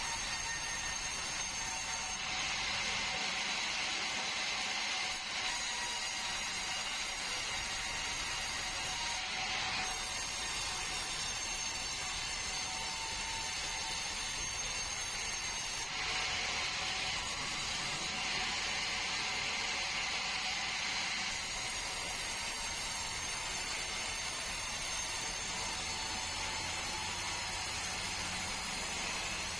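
Sawmill saw running steadily through a bengkirai log, a continuous high mechanical whine and rasp that gets harsher twice, for several seconds each time.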